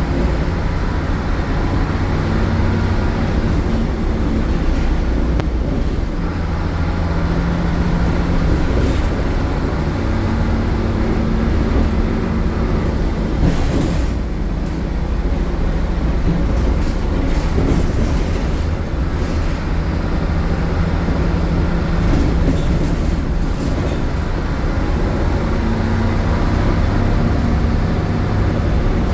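MAN A76 Lion's City city bus's MAN Euro 4 diesel engine, loud, pulling the bus along through its ZF automatic gearbox, its note rising and falling several times as it accelerates and eases off. A few short knocks or rattles from the bus body come through near the middle.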